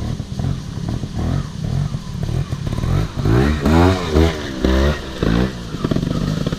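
Off-road motorcycle running with a steady low rumble, then revving up and down in several quick throttle surges from about three seconds in, with some clatter.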